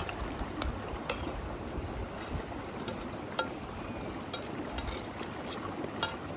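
River water flowing steadily, with a low rumble underneath and scattered sharp clicks every half second or so.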